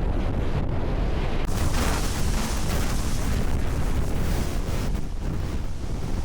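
Strong mountain wind buffeting the microphone: a loud, low rumble, with a gust of rushing wind swelling about a second and a half in.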